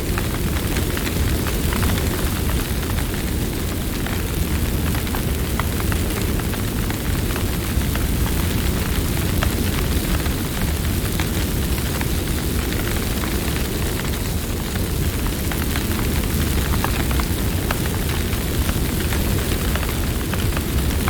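Campfire burning, crackling with many small sharp pops over a steady low rumble.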